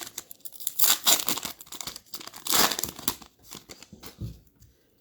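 Foil wrapper of a retail trading-card pack being torn open and crinkled by hand, with two loud spells of crackling about a second in and midway, dying away near the end.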